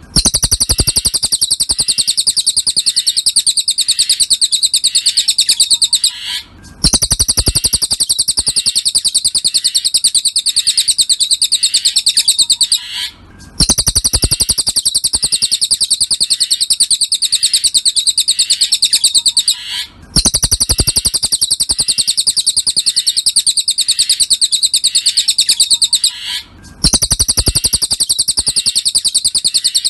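Cililin bird song played back as a masteran tutor recording: a fast, rapid-fire run of high chirping notes, repeated in near-identical bursts of about six and a half seconds with a brief break between each.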